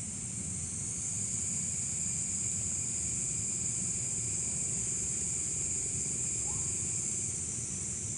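Steady high-pitched chorus of insects such as crickets, over a low rumbling background noise.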